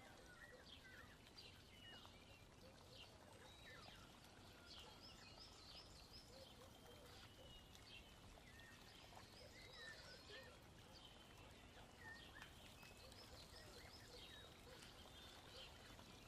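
Very faint birds chirping, many short calls scattered throughout, over near silence.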